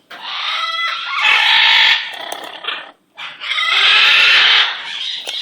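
Pet bird calling in two long, harsh, noisy bouts, the first about two seconds long and the second about a second and a half, with softer calls between them.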